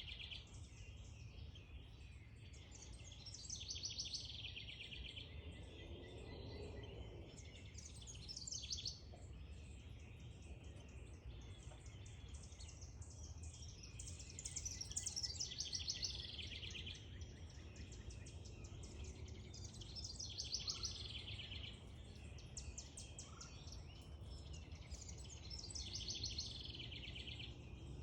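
Small songbirds singing: short high-pitched phrases of rapid notes, each a second or two long, repeating about every five or six seconds over a steady low background rumble.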